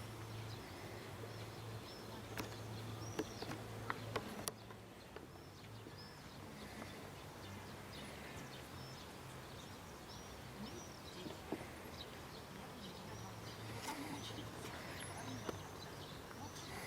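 Outdoor ambience of small birds chirping, short arched chirps repeated throughout, over a faint low hum, with a few sharp clicks a few seconds in.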